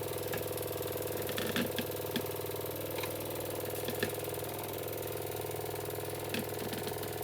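Jensen #70 live steam engine running steadily: a fast, even mechanical clatter with a handful of short clicks.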